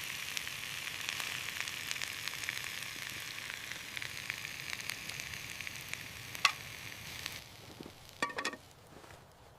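Food frying and sizzling over a campfire, a steady hiss with scattered sharp crackles and one louder pop about six and a half seconds in. The sizzle fades out about seven seconds in, leaving a few clicks near the end.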